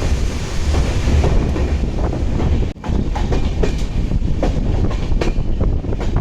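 Passenger train running along the track: a heavy steady rumble with irregular clicks and clacks of wheels over rail joints. The sound breaks off for a moment about three seconds in, then carries on.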